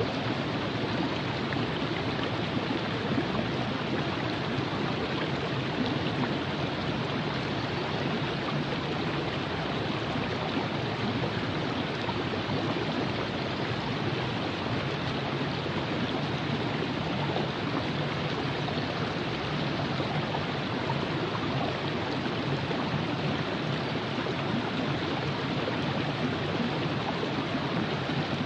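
Virgin River flowing over rocks: a steady, even rush of running water.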